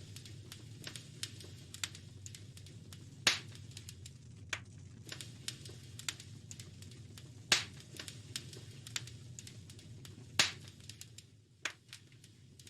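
Wood fire crackling in a fireplace: irregular small snaps and pops over a low steady rumble of burning, with three louder pops spread through the middle.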